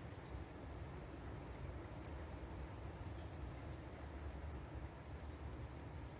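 Small birds chirping, several short high calls scattered through, over a steady low rumble.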